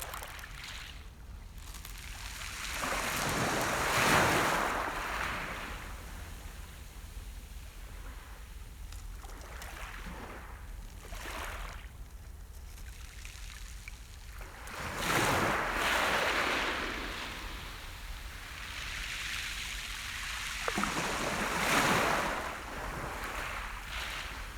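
Sea surf on a beach: waves break and wash in slow swells, with three bigger breakers a few seconds in, past the middle and near the end, and smaller washes between.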